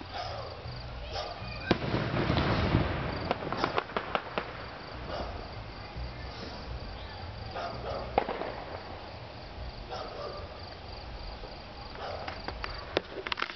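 Fireworks going off in the distance: scattered sharp bangs and crackles, with a loud one about two seconds in followed by a brief rushing swell, another sharp bang around eight seconds, and a cluster of pops near the end. Crickets chirp steadily underneath.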